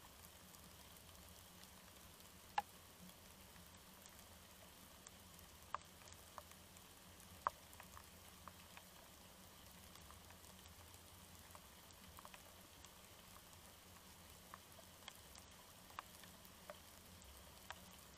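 Light rain: scattered drops ticking one by one over a faint steady hiss, a couple of them sharper and louder than the rest.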